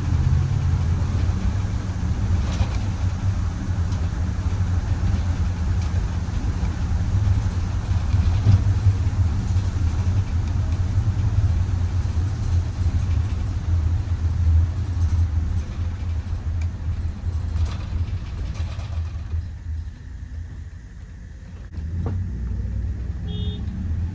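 Inside a Micro Bird Girardin G5 minibus under way: a steady low engine and road rumble. It drops off for a couple of seconds near the end before picking up again, and there is a brief high beep just before the end.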